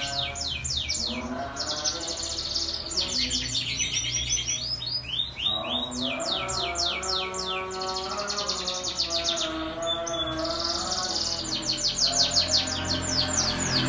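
Domestic canary singing long, rapid trills of quick falling notes in several phrases with short breaks, over soft background music.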